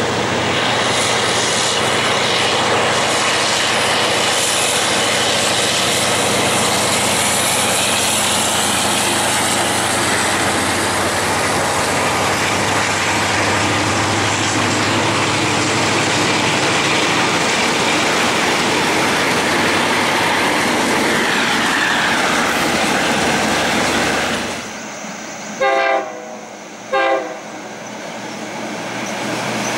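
Thai passenger train hauled by a diesel locomotive running past, with its engine, coaches and wheels on the rails loud and steady. The sound drops away suddenly about 25 seconds in. Two short train horn blasts follow, about a second apart, and then a train sound rises again near the end.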